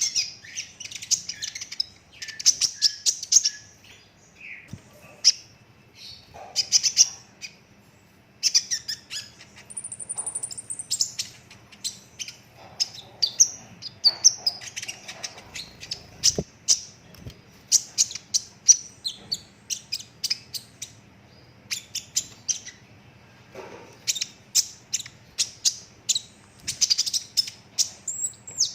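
Young sunbird (kolibri ninja) singing: runs of rapid, high chirping trills broken by short pauses, with one brief thin whistle about ten seconds in.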